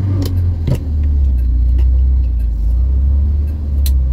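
Vauxhall Viva's four-cylinder petrol engine running steadily, heard from inside the cabin as a low drone that settles slightly lower in pitch about a second in. Its carburettor mixture has just been turned back up after running too lean, and it still needs further adjustment.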